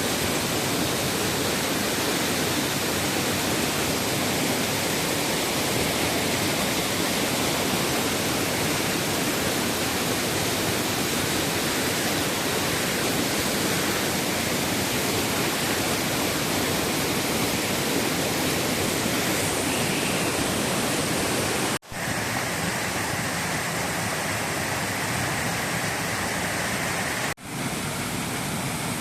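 Steady rush of water tumbling down a river cascade. It cuts out for an instant twice, about 22 and 27 seconds in, and comes back a little less deep each time.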